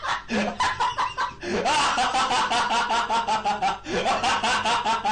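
A laughing sound effect: a person laughing in rapid pitched pulses, about five or six a second, in runs that start over twice, cut off abruptly at the end.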